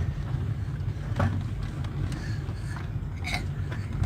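Steady low rumble of a car on the road, heard from inside the cabin, with a few faint short higher sounds near the end.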